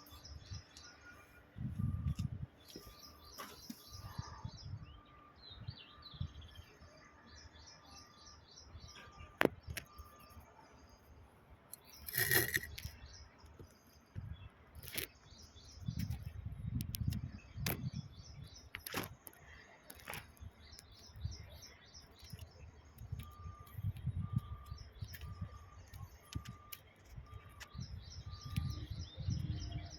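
Birds chirping in rapid high trills, with a repeated short piping call near the start and again near the end. Over them come the rumble of metal pump parts being handled and several sharp clicks and knocks, the loudest about twelve seconds in.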